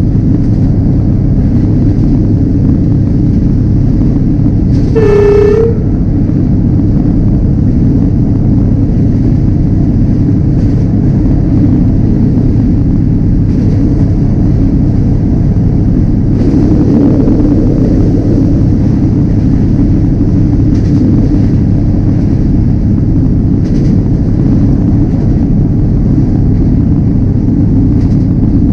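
Diesel train running at speed with a steady low rumble. One short horn blast, about half a second long, sounds about five seconds in.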